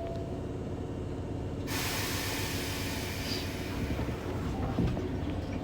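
Hankyu 6000 series electric train running at speed, heard from inside a passenger car. About a second and a half in, a loud rushing hiss sets in and stays over the steady running noise.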